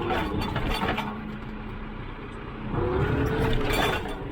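Tractor engine running steadily, with some knocks and rattles in the first second. About three seconds in it gets louder for about a second, a higher tone rising and then falling as the engine comes under load.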